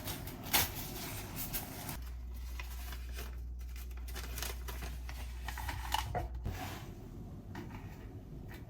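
Kitchen items being handled: light clicks and rustling, with a steady low hum for a few seconds in the middle.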